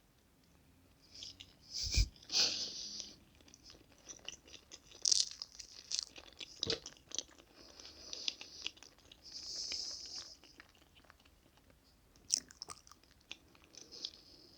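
Close-miked chewing and wet mouth sounds of someone eating chocolate cake, in irregular bursts with sharp clicks and a louder knock about two seconds in.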